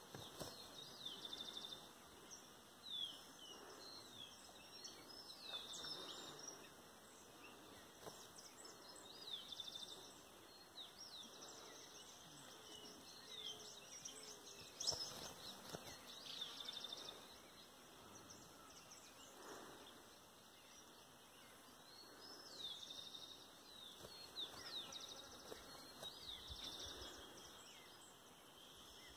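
Faint birdsong: many short, high chirps, often sliding down in pitch, from birds calling over a quiet background.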